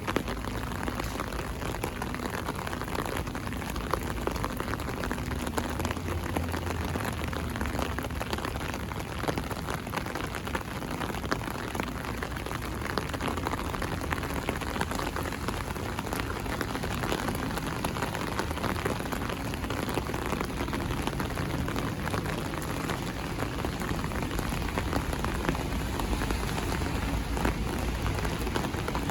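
Heavy rain falling steadily, a dense patter of drops, with a low rumble underneath.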